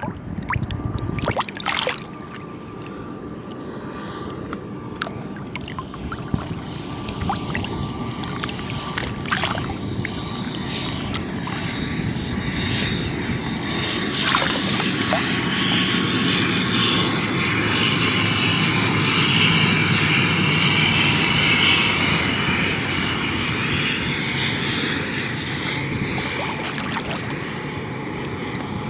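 Airplane engine droning as the plane passes, growing steadily louder to a peak about twenty seconds in and easing slightly near the end, with a faint tone slowly falling in pitch.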